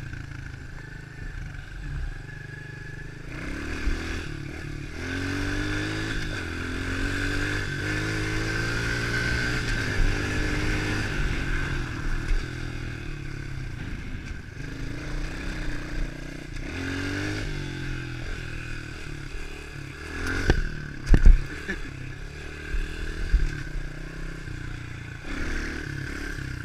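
110cc pit bike's four-stroke single-cylinder engine running under way, its pitch climbing as it revs up through the gears a couple of times. A few sharp knocks about three-quarters of the way through.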